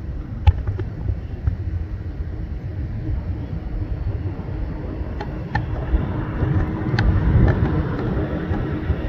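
Steady low rumble of distant jet aircraft at the airport, growing louder in the last few seconds, with a few light clicks.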